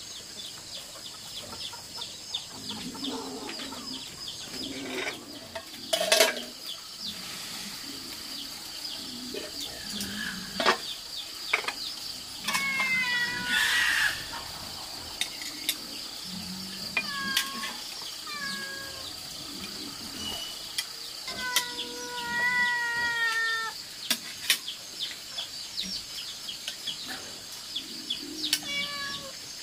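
Animal calls: several drawn-out, wavering pitched calls, the longest about two seconds, among scattered clicks and knocks over a steady high whine.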